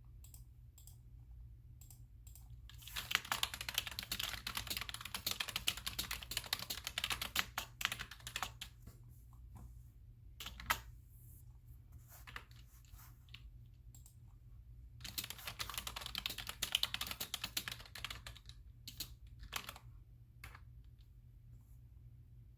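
Typing on a computer keyboard in two fast runs of key clicks, with pauses broken by scattered single clicks. A steady low hum runs underneath.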